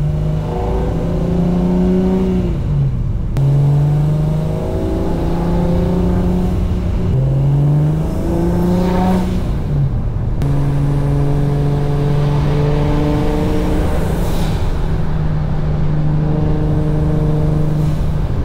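Single-turbo BMW N54 inline-six under way, picked up by a microphone under the engine. Its pitch climbs and then drops several times as the car accelerates and shifts gears.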